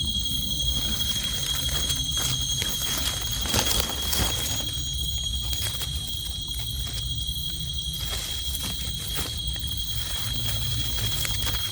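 An insect, likely a cricket, trilling steadily on one high pitch, over a low rumble with a few soft knocks or rustles about three and a half to four seconds in.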